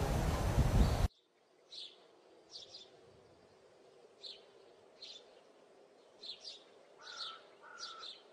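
Small birds chirping: short high chirps every half second to a second, some doubled, against faint background noise. A louder steady rushing noise with chirps in it cuts off abruptly about a second in.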